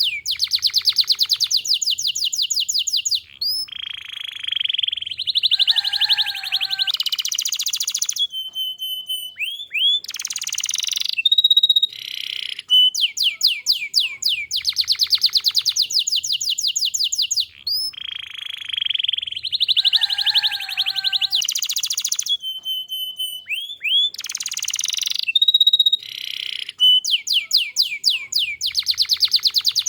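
Domestic canary in full song: a long, high-pitched run of rapid trills and rolls with short whistled notes between them. The same string of phrases comes round again about halfway through.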